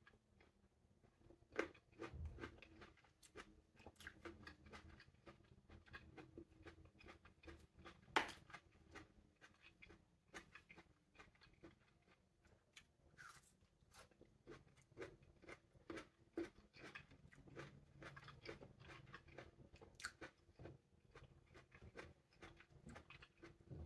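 Close-up chewing and biting of small green plums: many small crisp crunches, wet clicks and mouth smacks in an uneven run, with one louder crunch about eight seconds in.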